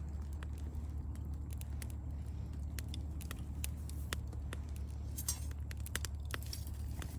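Campfire crackling: irregular sharp pops and snaps from burning wood, over a steady low hum.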